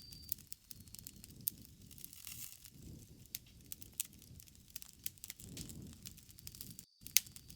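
Campfire burning: wood crackling with scattered sharp pops over a low, wavering rumble of flame. The sound cuts out for a moment near the end.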